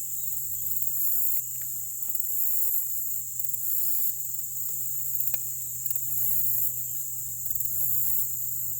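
Outdoor chorus of insects, crickets or katydids, singing in a high, steady trill that pulses evenly, with a steady low hum underneath.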